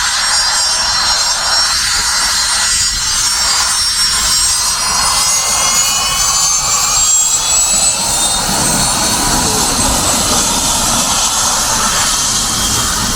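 Gulfstream G-IV's twin Rolls-Royce Tay turbofans running at taxi power: a steady jet rush with high whistling whine tones that rise slightly in pitch midway.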